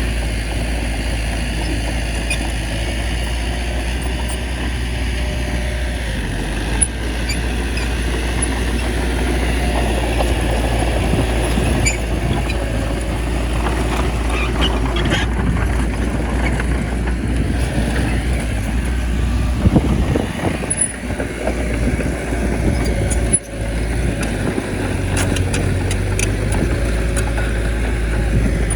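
Bulldozer's diesel engine running steadily under load, with a few short sharp clanks.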